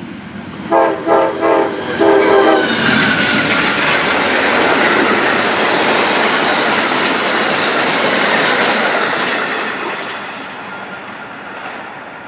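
Amtrak locomotive's Nathan K5LA five-chime horn sounding three blasts, the last a little longer, then the passenger train passing at speed with a loud rush of wheels on rail that fades away near the end.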